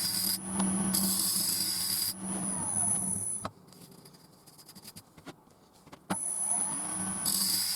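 Wood lathe running while a gouge cuts a spinning chestnut blank, a steady hum under a scraping hiss. The sound stops abruptly about three and a half seconds in, leaving a quiet stretch with a few faint ticks, then the cutting comes back suddenly about six seconds in.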